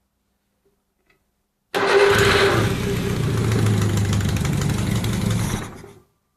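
Renault Ventoux four-cylinder engine, built from a Dauphine 670 bottom end with a Renault 4 800 head and a Solex 32 PBIC carburettor, starting for the first time. It starts suddenly about two seconds in, runs for about four seconds, then stops.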